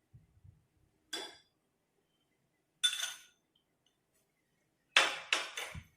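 A spoon clinking against a mug: single clinks about a second in and near three seconds, then a quick run of three or four clinks near the end, the loudest of them.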